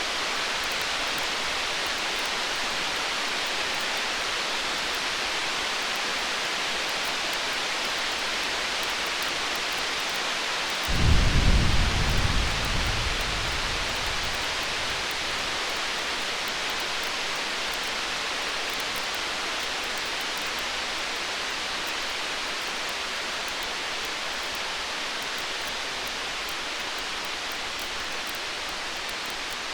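Distant thunder: one low rumble breaks in about eleven seconds in and fades over roughly three seconds, over a steady hiss like rain.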